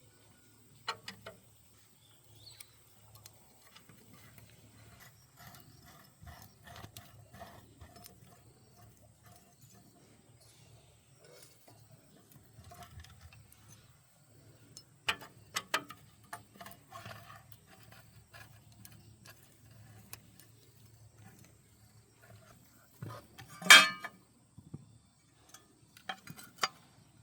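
Scattered metallic clicks and clinks of tools and engine parts being handled during tractor engine repair work, with one loud sharp clank near the end.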